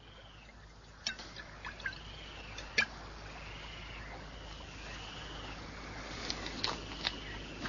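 Small birds chirping: a soft whistle that rises and falls, repeated about once a second, with sharp high chirps that sweep quickly downward, several of them near the end.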